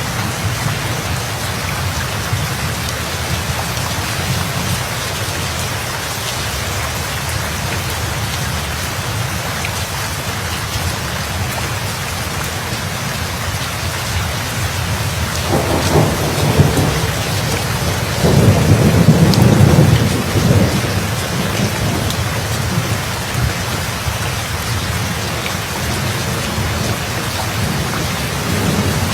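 Steady heavy rain with thunder rumbling, swelling about halfway through and loudest a little past the middle before dying away.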